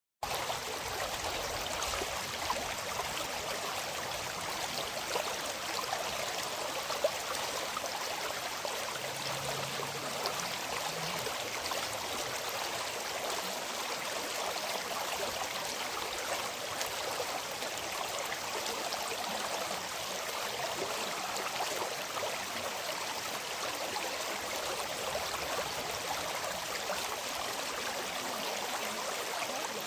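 River water flowing steadily in a continuous rush, starting abruptly just after a short silence.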